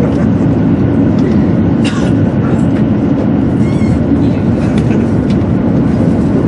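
Steady, loud rumble of a 200 series Shinkansen running at speed, heard inside the passenger car: wheel, track and air noise.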